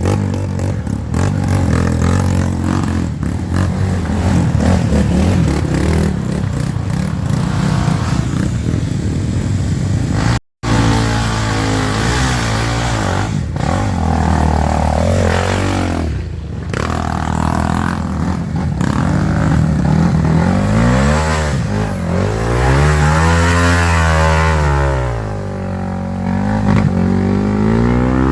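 Off-road trail motorcycle engines revving hard, pitch rising and falling repeatedly as the throttle is worked, with a momentary cut-out about ten seconds in.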